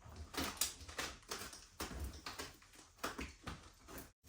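Irregular light clicks, knocks and rustles, with a brief dropout to silence near the end.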